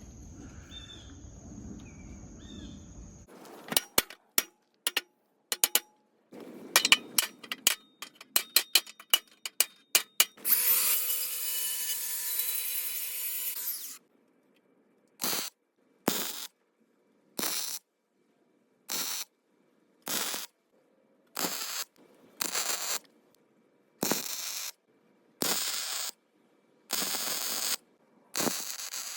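MIG welder arc welding a damaged mower deck: short crackling tacks and sputters, then a continuous crackling bead of about three seconds, then a regular series of short welds about a second and a half apart.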